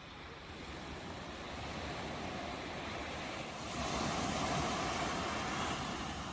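Ocean waves: a steady wash of surf, with one wave swelling louder about four seconds in and easing off near the end.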